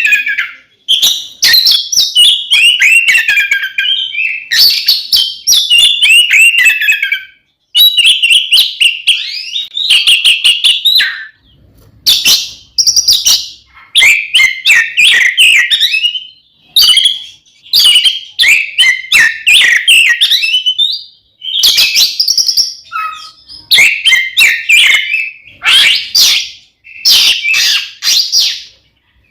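Oriental magpie-robin (kacer) singing loudly in its excited fighting song, full phrases of rapid, varied whistles and chattering notes with sharp clicks. Each phrase lasts a second or two, and short breaks fall between them.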